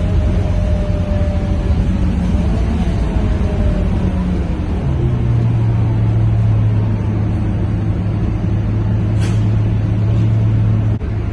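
Scania K230UB city bus accelerating hard on kickdown, its engine and drivetrain running loudly with a faint whine drifting slowly downward. About five seconds in, a steady low drone settles in, and a brief hiss comes near the end.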